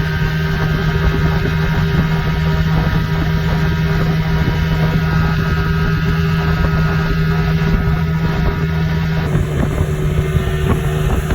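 Johnson outboard motor running steadily at full throttle, with wind buffeting the microphone.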